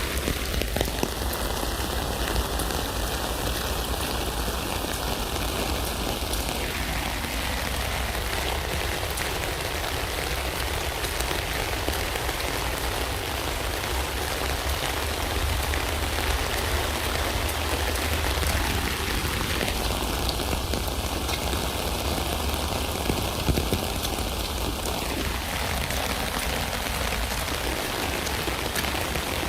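Steady rain falling on a tent, an even rushing hiss of drops with a low rumble underneath.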